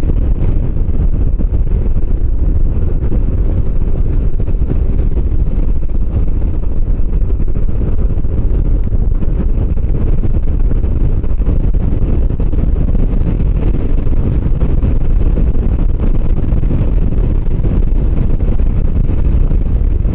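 Motorcycle at steady road speed: loud wind buffeting on the microphone, with the engine running underneath.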